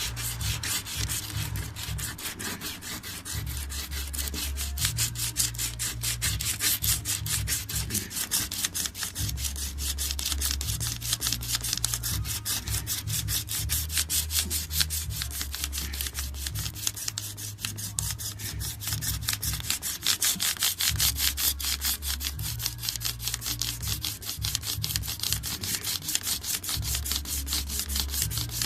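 Sandpaper on a hand sanding block rubbed back and forth over a hardened filler patch in a shower tray, in fast, steady scraping strokes. This is the sanding down of the cured repair filler.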